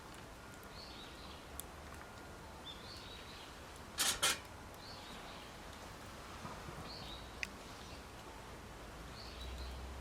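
A bird calling outdoors, a short high call repeated about every two seconds. Two sharp cracks come close together about four seconds in.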